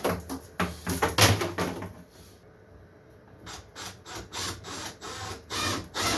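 Handling noises from hand work on the bench: a few clicks and knocks, then, after a short pause, a run of short rubbing or scraping strokes, about two to three a second.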